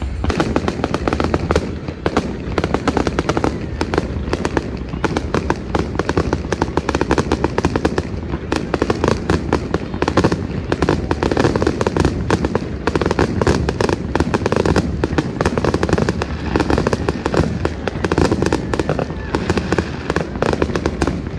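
Fireworks going off in a dense, rapid, unbroken crackle of many sharp bangs and pops overlapping one another.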